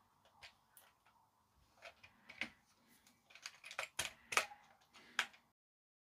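Hairdryer's plastic casing parts being handled and fitted back together: scattered clicks and taps, coming thicker over the last two seconds before the sound cuts off suddenly.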